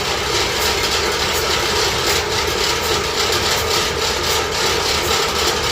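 Freshly rebuilt turbocharged engine running steadily just after being started, on one of its first start attempts.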